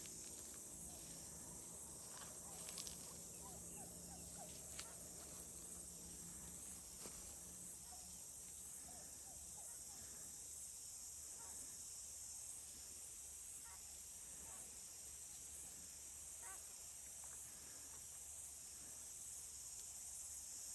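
Turkeys giving faint, short, scattered calls over a steady high-pitched hiss.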